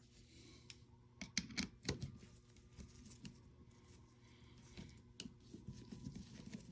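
Scattered light clicks and taps of a screwdriver and small parts being handled while an airsoft rifle is taken apart, with a cluster of clicks about a second and a half in and another near five seconds.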